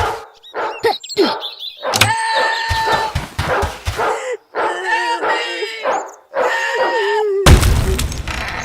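An animal, most like a dog, whining in a run of drawn-out, wavering calls, with a heavy thump near the end.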